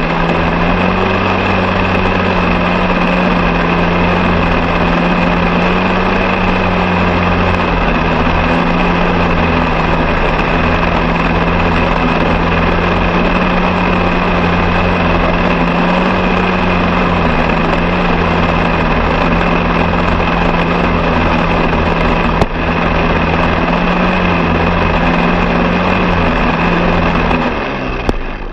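Engine running steadily at a constant speed, with a steady hum; it cuts away near the end.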